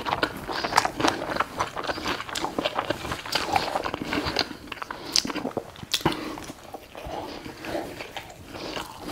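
Close-up eating sounds: a person biting and chewing food, with many irregular short clicks and mouth smacks.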